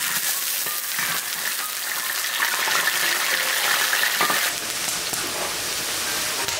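Strips of food deep-frying in hot oil in a wok: a steady sizzle. A spatula stirs them, with a couple of brief knocks against the wok.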